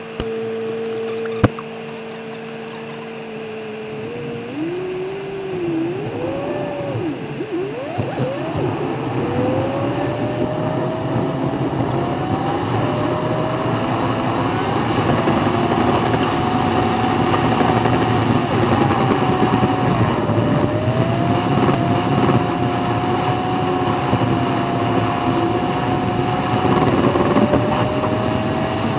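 Audi TT's engine idling steadily, then pulling away, its pitch rising and falling through several gear changes before holding near-steady at speed, with road and tyre noise building. A single sharp click about a second and a half in.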